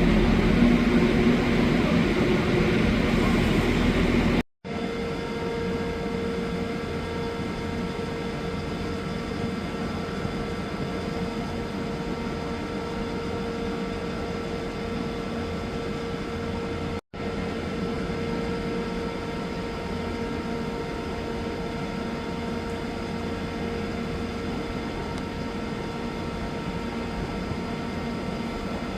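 A train running: a loud rumble with a low drone for the first few seconds, then, after an abrupt cut, a quieter steady hum with a constant tone, broken by another brief cut about 17 seconds in.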